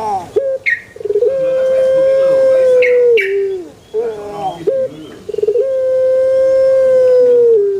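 Puter pelung dove (Streptopelia risoria) giving its long call twice. Each call is a few short opening notes and a rolling, rattling lead-in, then a long held coo of about two seconds that drops in pitch at the end.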